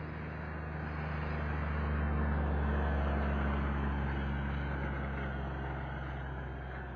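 Engine and tyre noise of a vehicle driving slowly along a park road, a steady low drone that swells about two seconds in and then eases off.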